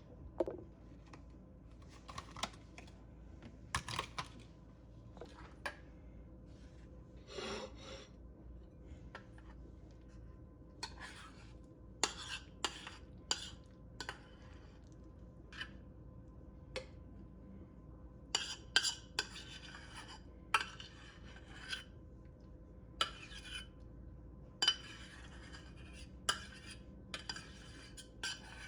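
Dishes and utensils clinking and scraping in irregular short strokes, busier in the second half.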